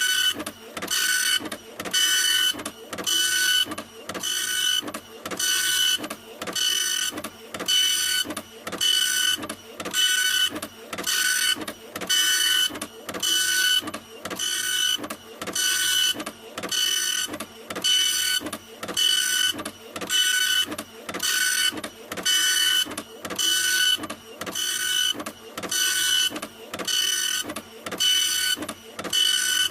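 Printer running, a whirring mechanical pass with a high whine that repeats evenly about once a second.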